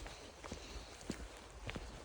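A hiker's footsteps at a steady walking pace, about one step every half second or so, each a short crunch or knock over a faint background hiss.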